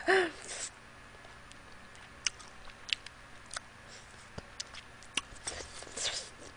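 Close-miked chewing of a sauced chicken wing: scattered wet mouth clicks and lip smacks, with a brief hum of the voice right at the start.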